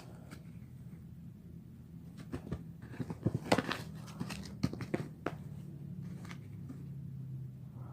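A cat playing with a crumpled paper ball: a quick flurry of light taps, clicks and paper rustles in the middle, over a steady low hum.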